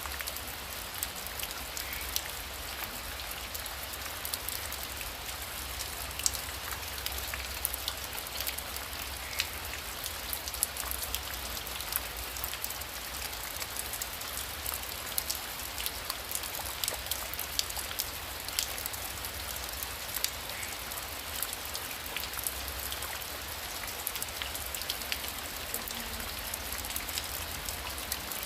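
Heavy rain falling steadily: an even hiss full of sharp ticks from individual drops striking close by, over a low steady rumble.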